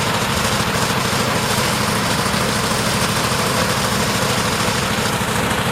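Heavy truck engine running steadily at idle, with a constant hiss over it.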